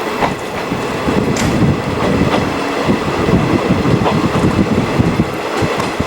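A train running on the rails, heard from inside a JNR 50-series passenger coach: a steady rumble of wheels and running gear, with scattered knocks and clacks.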